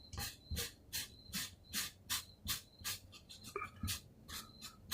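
An eraser rubbing back and forth on paper in quick, even strokes, about two and a half a second, working out pencil marks.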